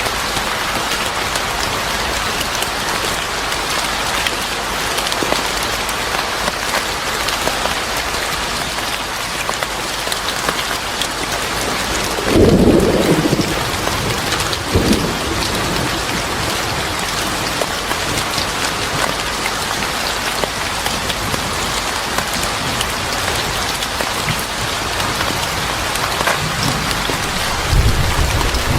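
Steady rain pouring down, with thunder rumbling about twelve seconds in, a shorter rumble a couple of seconds later, and more thunder starting near the end.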